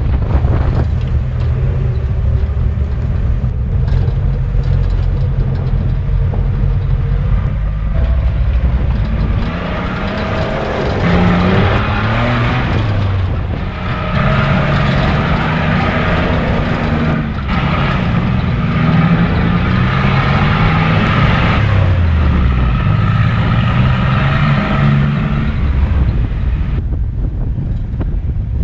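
Off-road vehicle engine running, first at a low steady speed, then from about nine seconds in revving higher with its pitch climbing and dropping again and again as it accelerates and eases off, before settling lower near the end.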